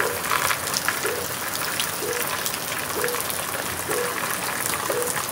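Heavy rain falling steadily, a dense hiss of drops spattering on roofs and hard surfaces. A short low note repeats about once a second in the background.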